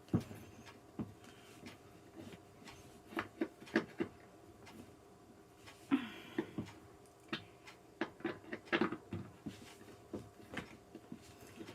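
Scattered light clicks and knocks of gaming-chair parts and tools being handled and fitted during assembly, over a faint steady hum.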